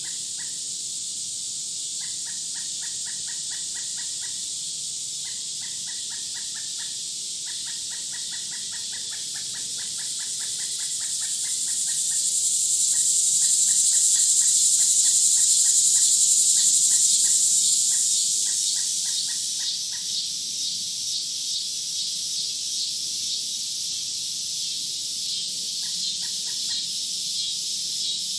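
Outdoor insect chorus: a steady high buzz that swells to its loudest midway, then turns into a fast pulsing trill. Over it, a bird gives bouts of quick repeated chattering notes, stopping after about two-thirds of the way and returning briefly near the end.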